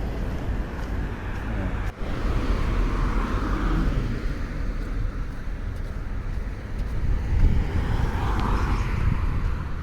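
Road traffic: cars driving past over a steady low rumble, one passing about three seconds in and another near the end.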